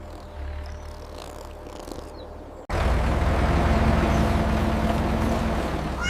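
Low, steady rumble of a heavy vehicle's engine, quieter at first, then cutting in much louder after a sudden break about two and a half seconds in.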